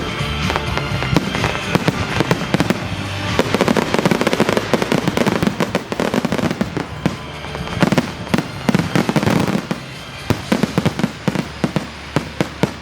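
Fireworks display in a dense barrage of bangs and crackles, many per second, with music playing underneath. The barrage thins toward the end into separate bangs.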